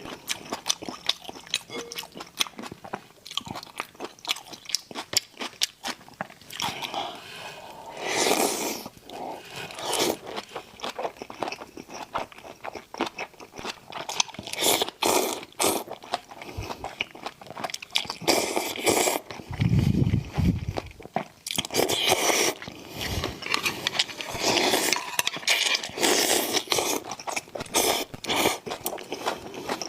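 Close-up eating sounds of spicy raw shrimp mixed with noodles: many quick crunching bites and chewing, with a few longer noisy bursts. There is a brief low rumble about two-thirds of the way through.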